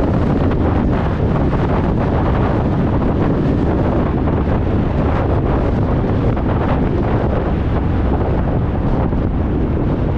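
Honda Deauville 650 V-twin motorcycle running steadily through an aftermarket Dominator exhaust under way, with heavy wind buffeting on the microphone.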